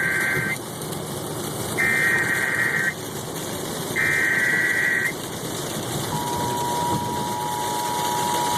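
Emergency Alert System tornado warning on the car radio: three short screeching data bursts, then, about six seconds in, the steady two-tone attention signal begins. Road and engine noise of the moving car runs underneath.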